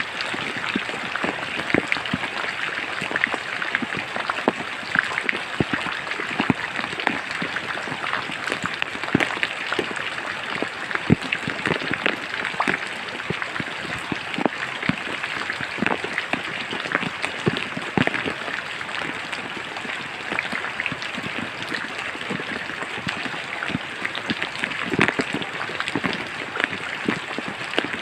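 Steady rain falling in a forest, an even hiss with many separate drops striking close by at irregular moments.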